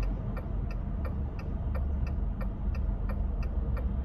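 Car turn-signal indicator clicking steadily, about two and a half clicks a second, over the low rumble of the engine and road inside the cabin.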